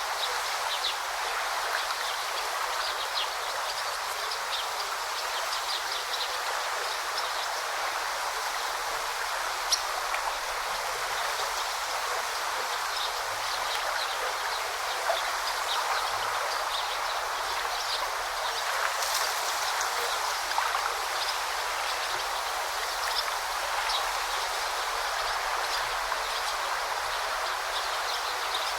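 Forest river running and babbling, with many brief high chirps or splashes scattered over it.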